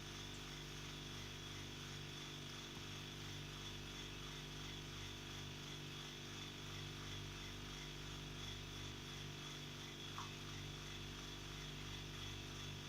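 A faint, steady low machine hum with a constant high-pitched whine above it.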